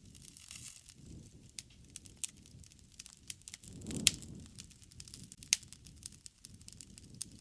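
Wood campfire crackling: scattered sharp pops and snaps over a low rumble of burning flames, with the loudest pop about four seconds in.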